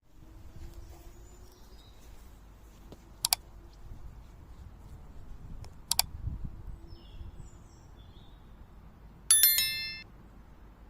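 Two short metallic clinks, then a louder metallic ringing with several quick strikes a little over a second long near the end. Faint bird chirps and a low rumble sit underneath.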